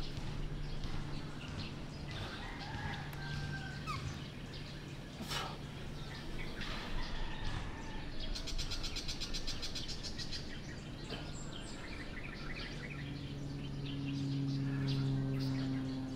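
Outdoor birds chirping, with a fast rattling trill about eight seconds in. A low steady hum grows louder near the end.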